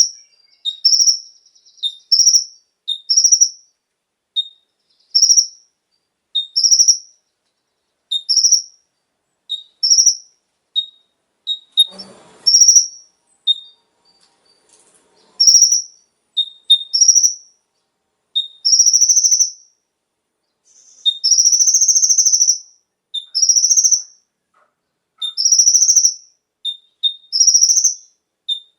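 Kolibri ninja (konin) sunbird singing: a short chirp followed by a longer, higher note, repeated about once a second; in the second half the high notes are drawn out longer.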